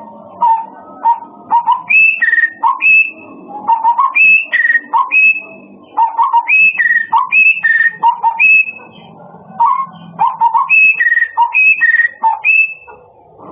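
A murai songbird singing loud, clear whistled notes, switching between lower and higher pitches in quick repeated phrases, with two short pauses.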